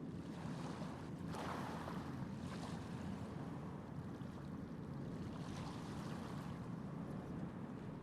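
Steady low rumble of a large passenger ship manoeuvring to berth, with wind on the microphone and a few brief rushes of hiss.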